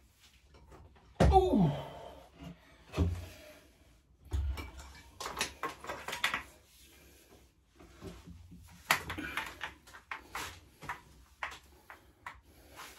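Knocks and clatter of metal bike parts and tools being handled during pit bike assembly: a loud knock about a second in with a short falling scrape after it, then irregular knocks and rattles.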